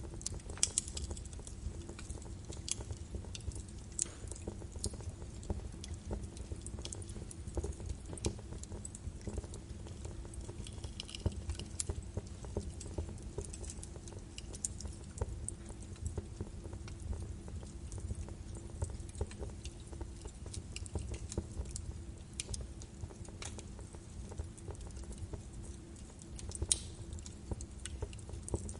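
Birch logs burning in a fireplace, crackling with irregular sharp pops over a low steady rumble of flames, with a louder pop near the end.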